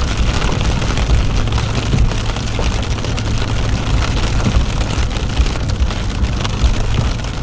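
Steady road and engine noise heard inside a moving truck's cab: a low rumble with tyre hiss from a wet, sleety highway at moderate speed.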